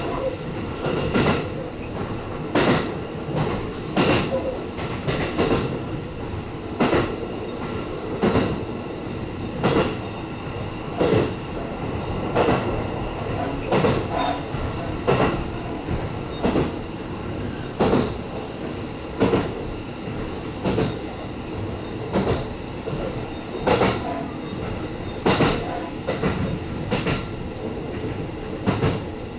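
E257-series electric train running at a steady pace, its wheels clicking over rail joints about every second and a half over a continuous rumble of running gear.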